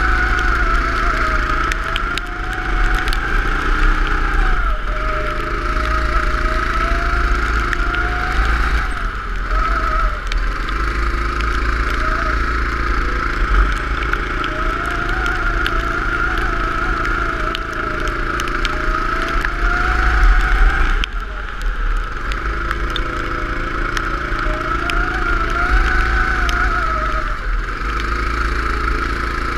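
Go-kart engine running through a lap, its pitch rising as it accelerates and falling as it eases off, over and over. It lifts off sharply about nine seconds in and again about twenty-one seconds in.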